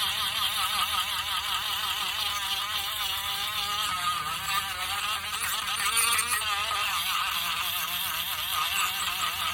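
Electric power sander running steadily against a small wooden cutout, its motor pitch wavering up and down as the piece is worked against the sanding surface, with a hiss of abrasive over the top.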